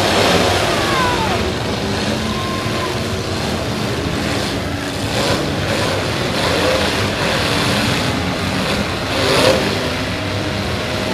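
Several demolition-derby stock cars' engines running and revving at once, their pitches rising and falling, with a few short bangs of cars colliding.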